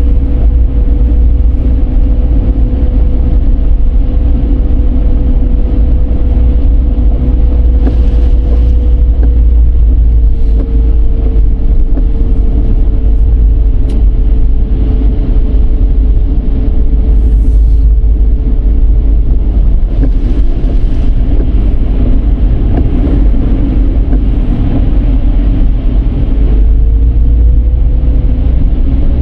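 Dodge Charger's road and engine noise while driving steadily: a heavy low rumble with a thin whine that sags slightly in pitch and climbs again near the end.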